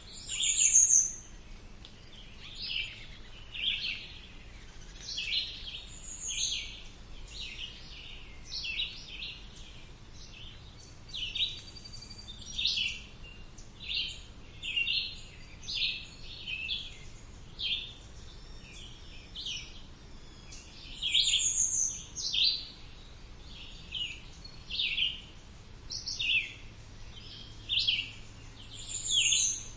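Birds singing: short chirping phrases repeating about once a second, with a higher falling note every several seconds.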